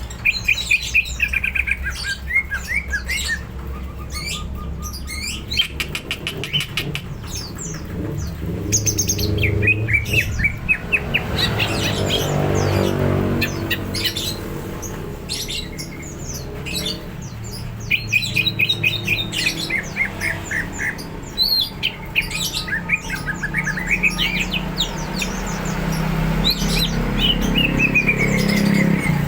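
Cucak ijo (green leafbird) singing hard: a continuous, varied stream of quick chirps, rapid repeated notes, trills and sliding whistles, some phrases falling in pitch, over a faint low hum.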